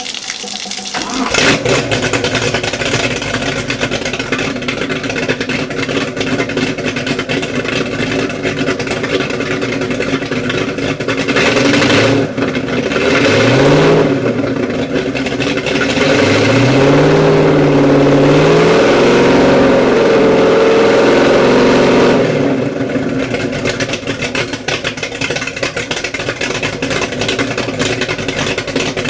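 Kiekhaefer 482 cubic-inch V8 race boat engine starting about a second in and running at a rough idle. The throttle is blipped twice near the middle, then held at higher revs for several seconds before it drops back to idle, while the ignition timing is being set.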